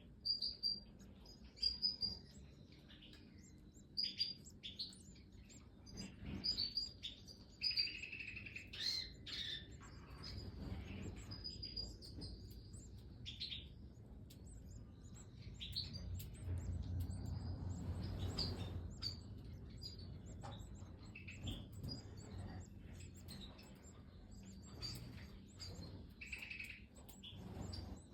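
Goldfinches in an aviary giving many short, high chirps and tweets at irregular intervals. A low rumble swells briefly about two-thirds of the way through.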